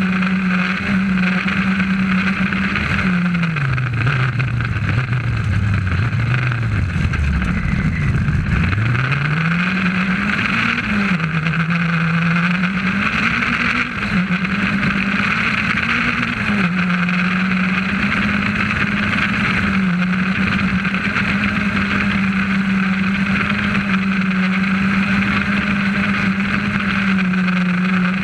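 Rally car engine heard from inside the cabin on a special stage. The engine note drops steeply a few seconds in as the car slows, climbs back in steps through the gears, holds high at full throttle, then falls again near the end, over steady road and cabin noise.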